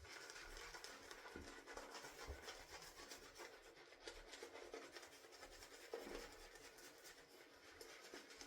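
Faint, steady rubbing and swishing of a shaving brush working wet soap lather, the lather being loaded with more water and loosening.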